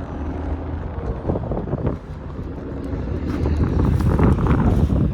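Wind buffeting the microphone with a gusting low rumble that grows louder about three seconds in.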